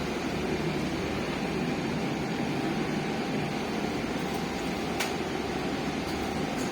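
Steady running noise inside a MAZ-215 articulated city bus, a low even rumble with one sharp click about five seconds in.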